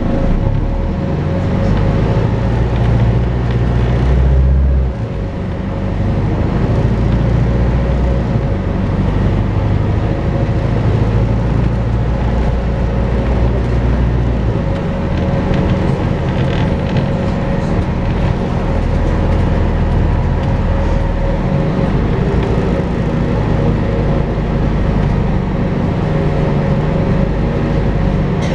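Volvo B5LH hybrid double-decker bus on the move, with its steady vacuum-cleaner-like whine, the 'hoover' sound, held over the low engine and road rumble. The rumble rises and falls a few times as the bus pulls and eases off.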